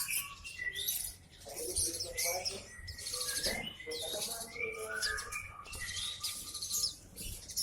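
Several caged songbirds chirping and singing at once, a busy mix of rapid high chirps and trills with some lower call notes.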